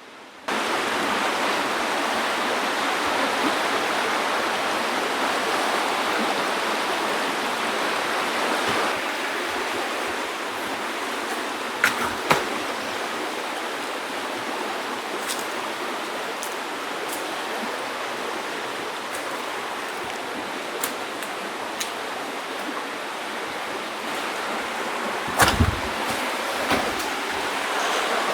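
Steady rush of river water flowing over rocks. A couple of short knocks about twelve seconds in and a dull thud near the end.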